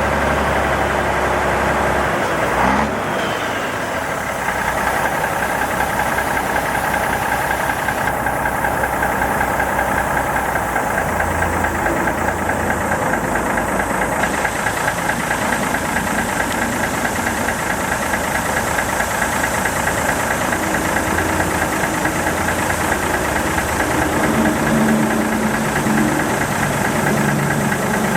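Mack DM600 dump truck's diesel engine idling steadily with an even, fast rhythm. A single knock sounds about three seconds in.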